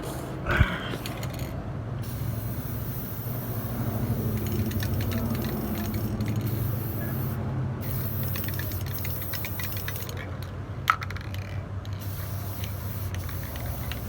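Aerosol spray-paint can hissing in long bursts, stopping briefly a few times, over a steady low hum. Two sharp clicks, one near the start and one about eleven seconds in.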